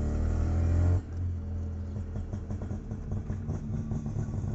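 Mazda RX-3's rotary engine, heard from inside the cabin, revving up under acceleration, then dropping off sharply about a second in and running on lower and unevenly as the car drives.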